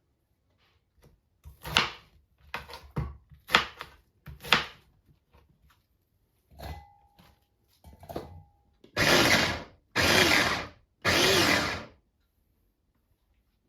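Electric kitchen blender run in three short pulses of about a second each, after a series of knocks and clicks from the container and lid being handled.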